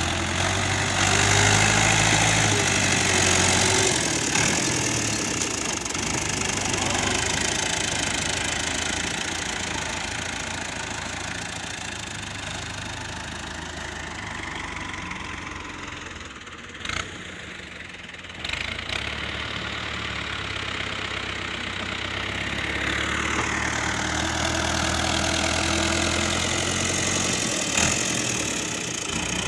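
Tractor diesel engine running steadily, working harder and louder at the start, easing off through the middle with a brief drop about seventeen seconds in, then picking up again.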